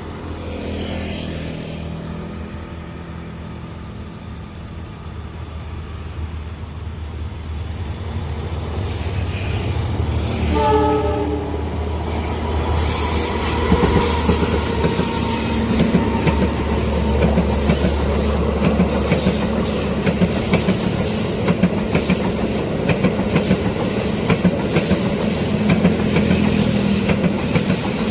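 Diesel-hauled train on Indonesian railways approaching and passing a level crossing. A low engine rumble builds, a short horn blast sounds about ten seconds in, then the wheels clatter steadily over the rail joints with a thin high squeal.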